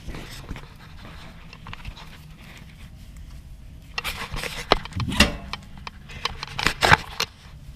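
A dog, an Australian Shepherd, panting in quick breathy bursts from about halfway in, with a few sharp clicks among them.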